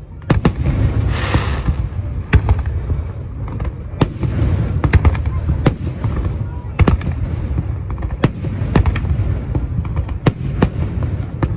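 Aerial fireworks display going off: a rapid run of sharp bangs and cracks, dozens over the stretch, with a burst of crackle about a second in, over a continuous low rumble of booms echoing.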